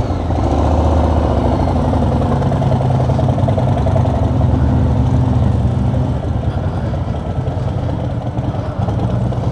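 Harley-Davidson V-twin motorcycle engine running on the road, a steady low engine note.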